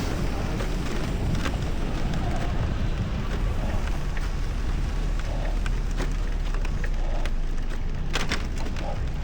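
Steady rush of wind buffeting the camera microphone while riding a bicycle through snow and slush, with tyre and traffic noise underneath and a few faint clicks near the end.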